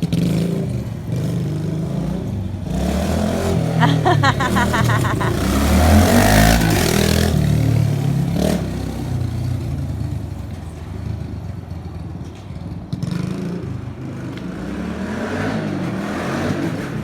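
Kawasaki KLX110 pit bike's single-cylinder four-stroke engine revving up and down as it is ridden, warmed up and stock. A rush of noise joins it about six seconds in.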